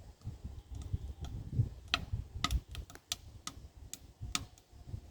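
Wood fire crackling in a small firebox tent stove: sharp, irregular snaps, more frequent in the second half, over a low rumble.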